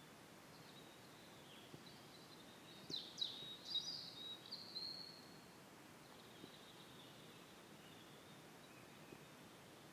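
Faint birdsong: thin high chirps and quick down-sweeping notes in a short burst about three seconds in, then softer calls, over a quiet steady hiss.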